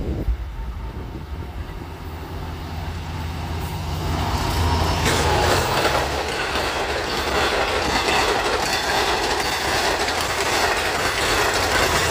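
A Long Island Rail Road train passing through: a steady low hum for the first few seconds, then a loud rush of wheel and rail noise that swells about four seconds in and holds, with a clatter of wheels over the rails.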